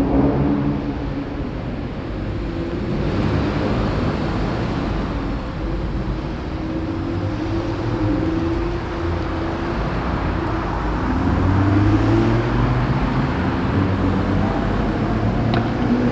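Car engines running at a car meet, with low exhaust notes that shift in pitch and rise as an engine is revved about eleven seconds in.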